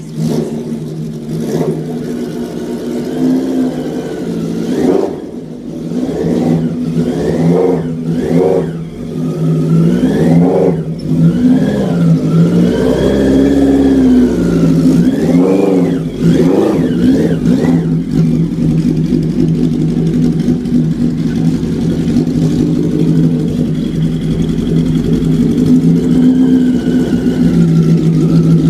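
Custom stretched Suzuki Katana motorcycle's inline-four engine running, revved up and down repeatedly through the first half, then held at a steadier speed as the bike rides off.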